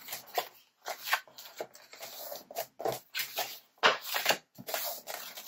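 Paper and card rustling as pieces are handled and folded, with irregular short swishes and creasing strokes.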